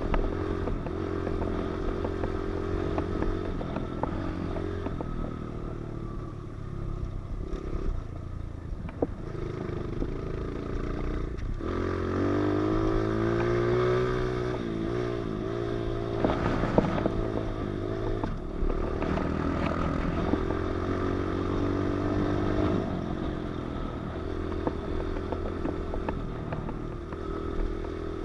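Pit bike engine running as the bike is ridden, its revs rising and falling with the throttle, with a marked climb in revs about halfway through. Scattered clicks and rattles run alongside the engine.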